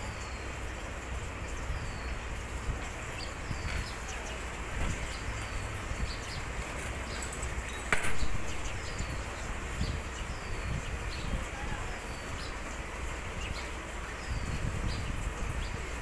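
A small bird's thin, high, falling chirps, repeated about once a second over a low background hum, with a brief louder scrape and click about halfway through.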